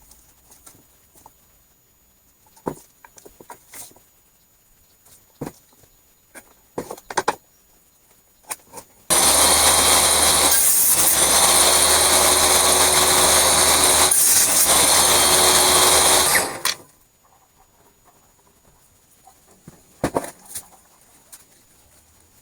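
Power tool running in woodwork for about seven seconds, with two brief dips in its sound, between scattered knocks and clicks of handling wood.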